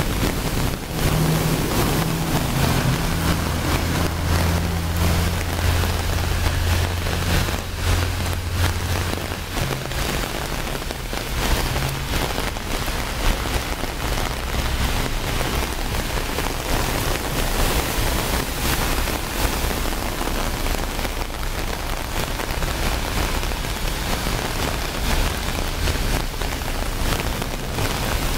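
Heavy rain falling on the fabric awning overhead and the flooded street: a dense, steady hiss full of drop hits. A low steady engine hum from passing traffic runs under it for roughly the first ten seconds.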